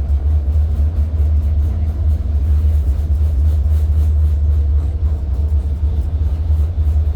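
Tram running along its line, heard from inside the car as a steady, loud low rumble.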